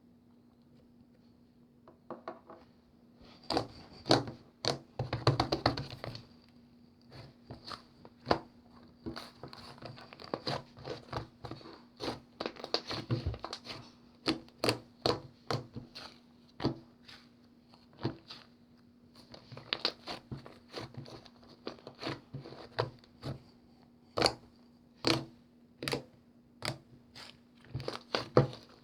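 Hands squeezing, pressing and stretching a slime: irregular sticky clicks and popping air pockets, with denser crackling stretches now and then.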